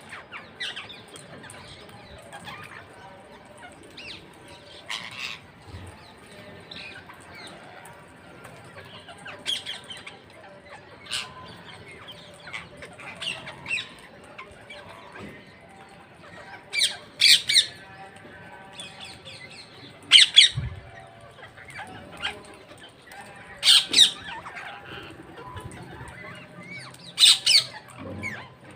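Parrots squawking: sharp, harsh screeches every few seconds, louder and more frequent in the second half, over quieter chattering calls.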